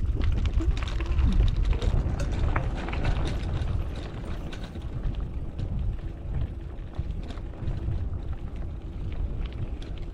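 Mountain bike riding over a dirt road: wind buffeting the microphone with a heavy rumble, over irregular clicking and rattling from the bike and its tyres on the rough ground. The rumble is strongest in the first couple of seconds.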